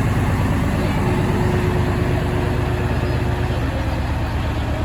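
Diesel engines of Kenworth semi-trucks running steadily at low revs. A faint held tone sounds over them for a couple of seconds starting about a second in.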